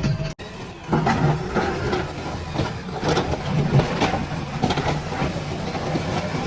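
JCB 3DX backhoe loader's diesel engine running, with irregular knocks and clatter over it. The sound begins after a brief dropout just at the start.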